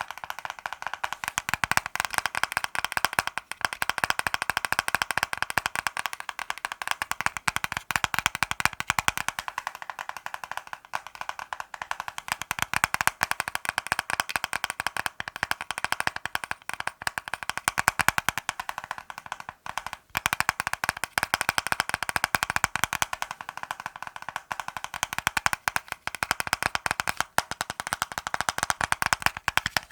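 Fast ASMR tapping with the fingers on hard objects: a dense, rapid run of light, clicky taps, with a brief break about ten seconds in and another about twenty seconds in.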